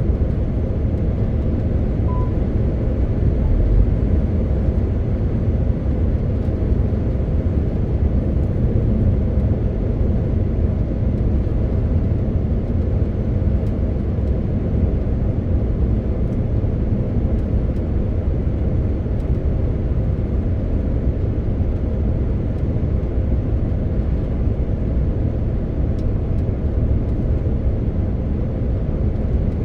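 A MAN TGX 18.520 truck on the move, its six-cylinder diesel engine and tyres giving a steady, continuous low rumble. There is a short faint beep about two seconds in.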